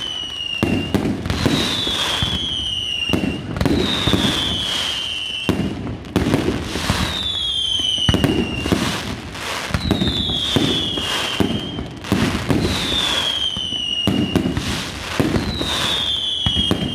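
Fireworks going off: a dense run of bangs and crackles, with a whistling shot about every two seconds whose whistle falls in pitch as it burns out.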